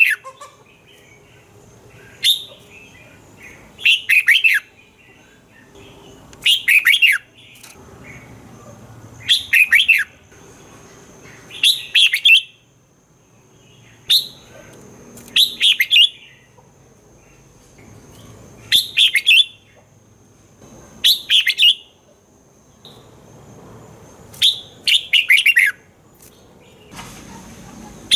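Red-whiskered bulbul singing: short, quick warbled phrases, each under a second long, repeated about every two to three seconds.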